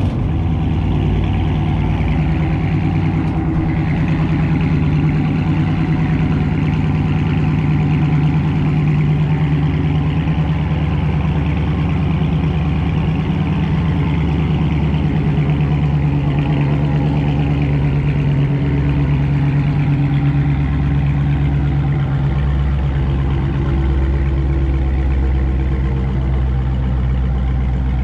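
2019 Dodge Charger Scat Pack's 6.4-litre HEMI V8 with a mid-muffler delete idling steadily just after a warm start, with a deep exhaust note.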